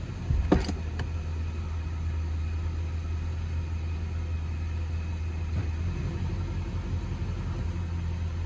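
Infiniti Q45's VH41DE V8 idling steadily in drive, with a brief knock about half a second in. The idle is smooth, no longer shaking, now that the failed ignition coil that caused the misfire has been replaced.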